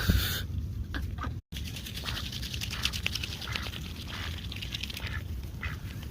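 Geese and ducks pecking and dabbling at food, a fast run of small bill clicks, with a few short quacks near the end.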